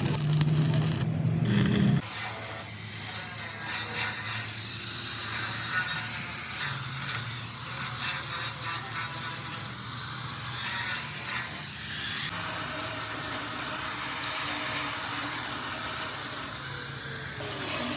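A low hum for about two seconds, then the rough, high-pitched noise of a power tool working metal, swelling and easing as it cuts.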